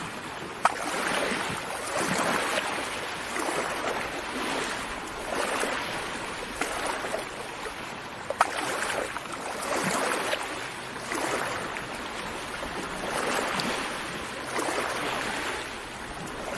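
Gentle sea waves washing onto a beach, swelling and fading every few seconds. Two brief sharp clicks stand out, one just after the start and one about halfway through.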